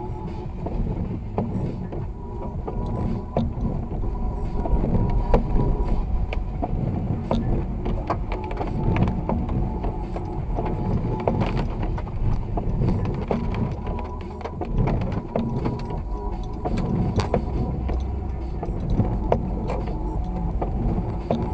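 Car driving in snow, heard from inside the vehicle: a steady low road rumble with scattered clicks and rattles throughout.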